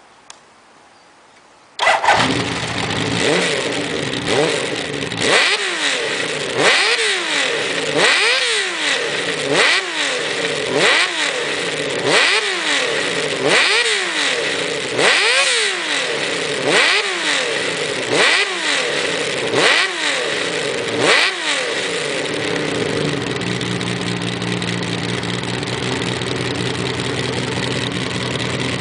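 A motorcycle engine starts suddenly about two seconds in. It is blipped through about fourteen quick revs, roughly one every second and a half, then settles into a steady idle for the last several seconds.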